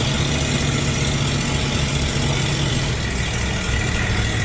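Ford 302 V8 engine in a 1936 Divco Twin bread truck, running steadily at about idle.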